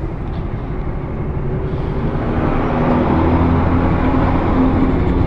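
Suzuki Gixxer SF single-cylinder motorcycle engine idling at a standstill, a steady low hum that grows a little louder and clearer about two seconds in.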